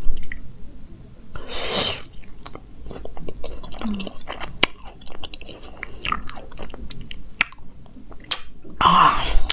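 Close-miked chewing and biting of petha (candied ash gourd) with a khoya barfi filling: wet mouth clicks and a light crunch, with two louder breathy bursts about two seconds in and near the end.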